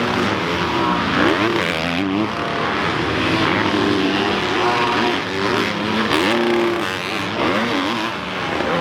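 Several dirt bike engines racing together, each revving up and down so that their rising and falling pitches overlap.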